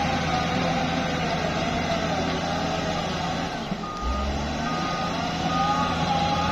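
Heavy diesel construction machinery running steadily with a wavering whine. About four seconds in the engine note shifts and a reversing alarm starts, beeping about once a second.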